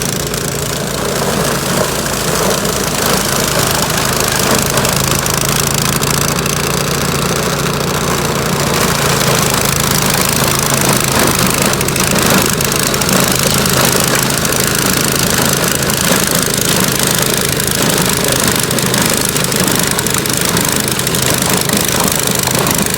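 Small gasoline engine of an ice-clearing machine running steadily at a constant speed, under a continuous grinding hiss.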